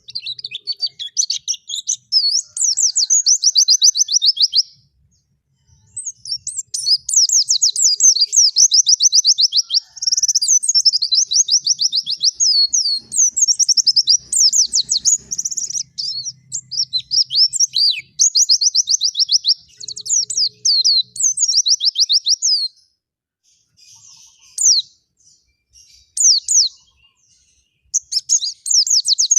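A small songbird singing long runs of rapid, high trilled notes in phrases lasting several seconds, broken by short pauses, with a few separate sharp notes before the last run.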